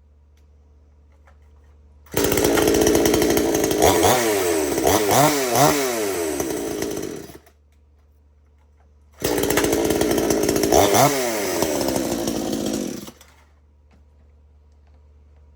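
Two-stroke Craftsman chainsaw running in two bursts of about five and four seconds. It revs up and down several times in each, and each burst starts and stops abruptly.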